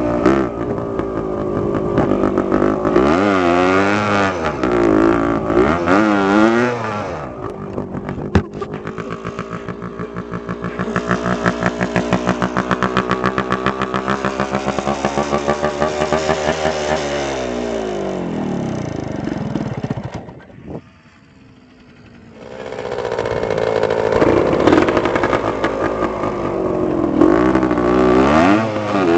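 Dirt bike engine running and revving up and down repeatedly, with a steadier pulsing stretch in the middle. There is a sharp click about eight seconds in. The engine sound falls away briefly about two-thirds through, then revs climb again.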